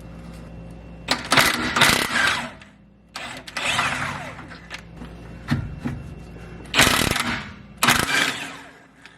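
A wrench with a 15mm socket working the exhaust bolts loose under the car, in about five loud rattling bursts.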